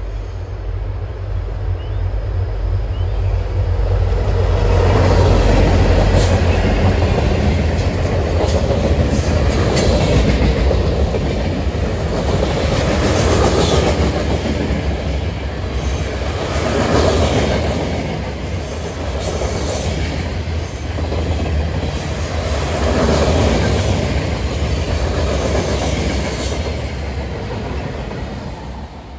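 Amtrak passenger train led by a GE Genesis diesel locomotive passing close by. The low rumble of the locomotive builds to its loudest a few seconds in. The rumble and clatter of the cars' wheels on the rails follows, swelling and dipping every few seconds as the cars go by, and dies away right at the end.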